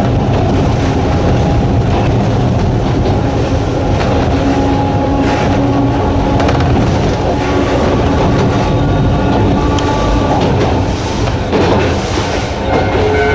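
Narrow-gauge Hokusei Line electric train running, its wheels clattering over the rail joints under the steady drone of its nose-suspended traction motors. The sound is loud and continuous.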